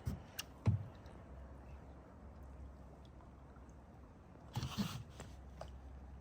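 Kayak paddling: two low knocks in the first second, then a paddle stroke with a brief splash and knocks about four and a half seconds in.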